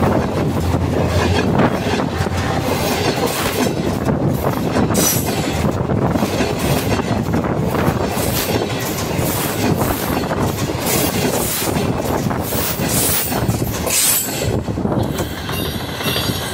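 Passenger train carriages rolling past at speed: a loud, steady rumble of steel wheels on the rails with a quick run of clicks as the wheels cross the rail joints.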